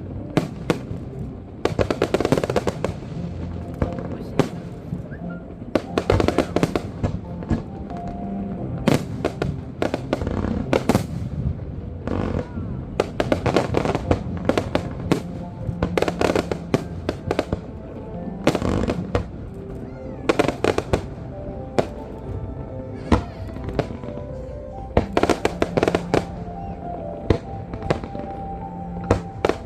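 Fireworks going off in an irregular run of sharp bangs, some in quick clusters, with music playing underneath.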